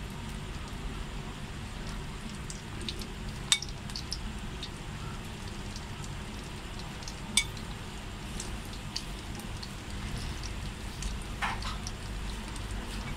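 Flour-coated chicken pieces deep-frying in oil at medium heat in a kadai, a steady sizzle and bubbling. Two sharp clicks of the metal tongs against the pan stand out, about three and a half and seven seconds in.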